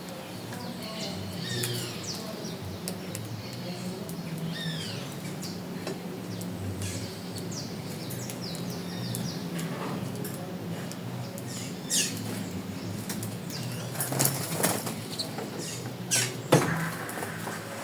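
Small birds calling with repeated short, downward-sliding chirps, joined in the last few seconds by several sharp, sudden sounds such as wingbeats or knocks, over a steady low hum.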